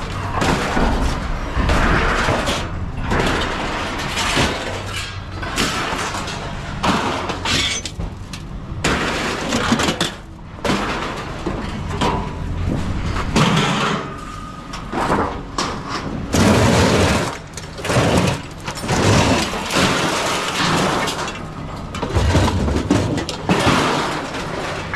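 Loose scrap metal being unloaded, a dense, irregular run of crashes and clatters.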